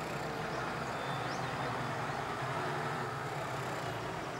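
Farm tractor engine running steadily under load while pushing and rolling grass on a silage clamp.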